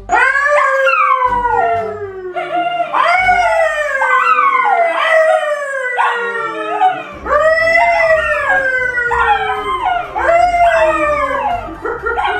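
A dog howling: a continuous run of long calls, each rising and then sliding down in pitch, one after another.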